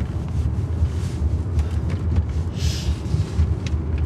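Car engine idling, a steady low rumble heard from inside the cabin. A short hiss comes about two and a half seconds in, and a few light clicks near the end.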